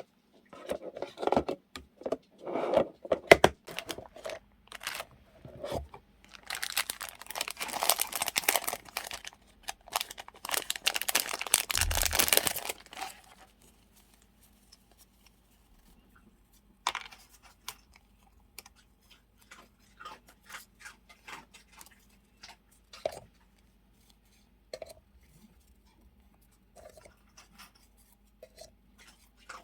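Close-up handling of paper and plastic journaling supplies: scattered taps and rustles, then a long stretch of tearing and crinkling from about six to thirteen seconds in, followed by light, sparse taps and clicks.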